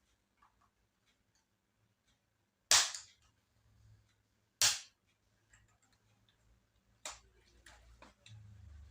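Plastic retaining clips of a laptop's bottom cover snapping loose as the case is pried open: three sharp cracks a second or two apart, with small plastic ticks and clicks between them.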